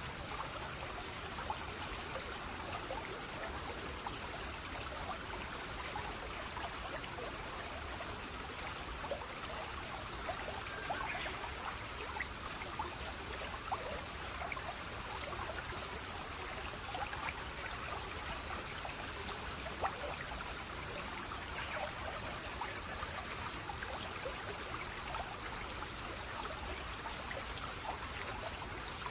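Running water from a small cascade, trickling and splashing steadily. A faint high trill comes back about every six seconds.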